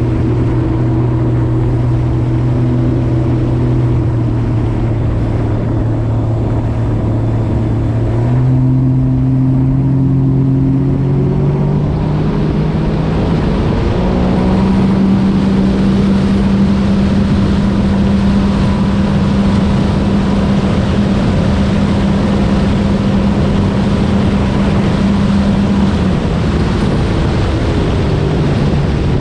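Supercharged Sea-Doo RXP-X 300 personal watercraft engine, fitted with a Riva Racing exhaust, running hard at speed over a steady rush of water. The engine note steps up about a third of the way in, climbs higher around halfway and holds there, then drops back near the end.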